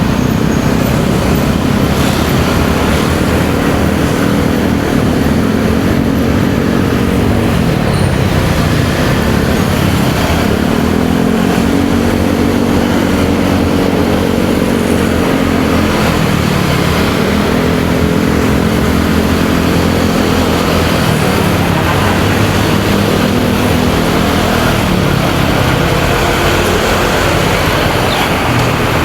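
Motorcycle engine running under way, its pitch rising and falling several times as the rider speeds up and eases off, over steady wind and road noise.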